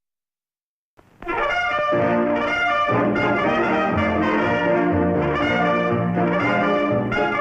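About a second of silence, then a brass-led orchestral music cue starts and plays on loudly, with trombones and trumpets to the fore.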